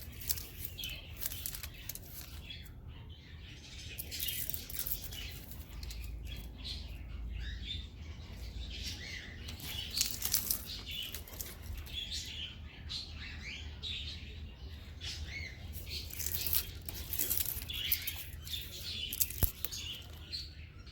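Small birds chirping repeatedly, mixed with frequent short rustling, fluttering noises.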